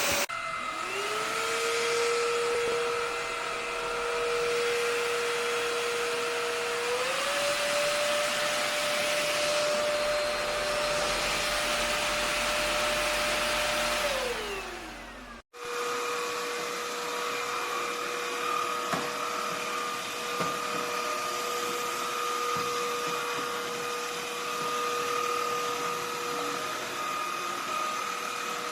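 Cordless stick vacuum (Vexilar V9PRO) running, a steady motor whine over the rush of air. About a quarter of the way in it steps up to a higher speed, and around halfway it winds down and stops. After a short break it runs steadily again, its pitch rising slightly near the end.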